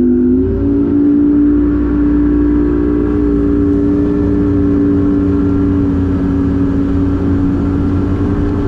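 Bass boat outboard motor running at speed with a steady drone, its pitch rising a little about half a second in and then holding.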